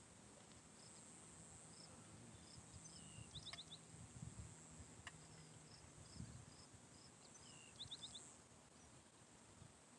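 Faint morning birdsong, short high chirps and quick runs of four notes (about three and a half seconds in and again near eight seconds), over a steady high-pitched drone of insects.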